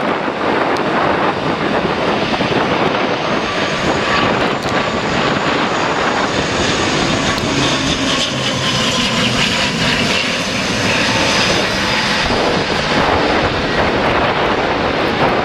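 Jet airliner's engines passing overhead, a high whine swelling and fading through the middle over a steady rush. Wind buffets the microphone.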